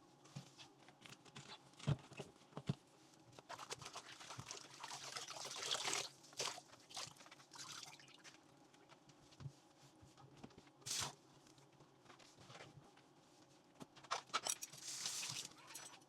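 Dishes being washed by hand at a sink: short runs of water from the tap with scattered clinks and knocks of dishes.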